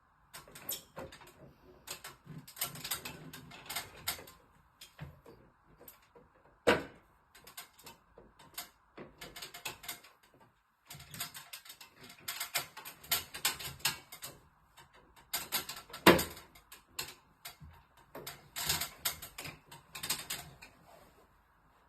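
Irregular bursts of rapid mechanical clicking and rattling, with a sharp knock about 7 seconds in and another about 16 seconds in.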